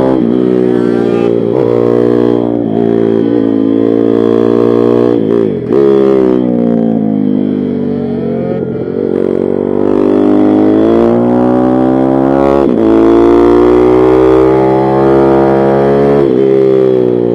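Pit bike's small single-cylinder engine being ridden hard, its pitch climbing and dropping repeatedly as it revs up and the throttle is shut or a gear is changed.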